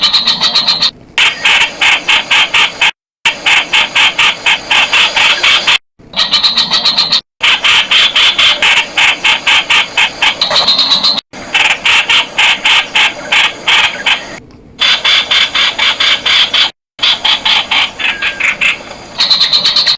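Streak-eared bulbul calling, a rapid chatter of sharp repeated notes at about eight a second. It comes in runs of a few seconds broken by brief, abrupt dead-silent gaps.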